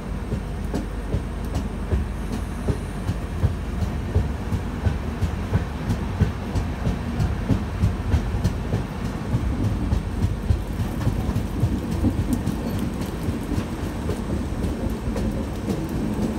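Passenger train running along the track, a steady low rumble with the wheels clicking over the rail joints, heard from the open doorway of a moving coach.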